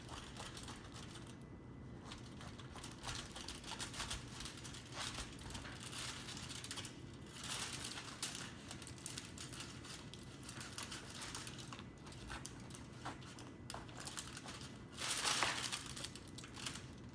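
Knife cutting around the core of a half jackfruit and hands pulling the sticky fruit apart: faint, irregular crinkling and rustling with small clicks and scrapes, louder for a moment near the end.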